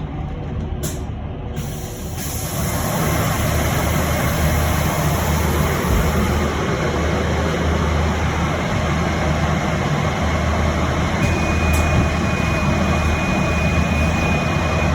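Cabin noise of an electric bus on the move: a low hum with road and tyre noise that grows louder about two seconds in. A short sharp click comes about a second in, and a steady high tone sounds through the last few seconds.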